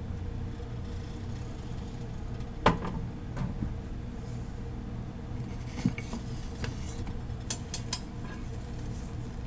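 Kitchenware being handled while breakfast is made: a few sharp clinks and knocks of dishes and utensils, the loudest a little under three seconds in, over a steady low hum.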